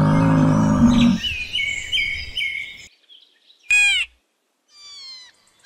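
A musk ox gives a low call lasting about a second, over birds chirping a short falling note again and again. About 3.7 s in there is a short, sharp, high call from an animal, followed by faint bird chirps.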